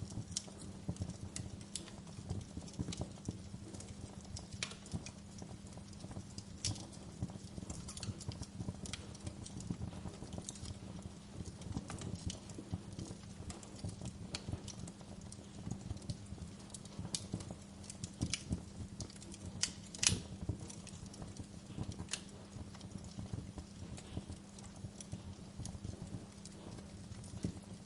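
Wood fire burning in a fireplace, crackling with irregular sharp pops over a low steady rumble of the flames; a louder pair of pops comes about 20 seconds in.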